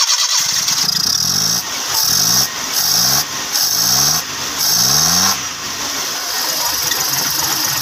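Suzuki Mehran's 800 cc three-cylinder carburetted engine, cold and just started after a carburettor service, being revved up and dropping back about five times, a second or so apart. Near the end it settles into a steadier run.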